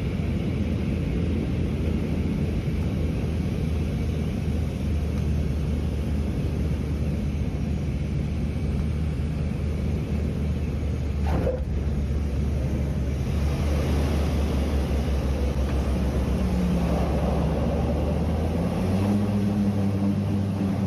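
Cabin drone of a small propeller airliner's engines and propellers on approach, a steady low hum with rushing air. About two seconds before the end the engine note steps up to a higher pitch.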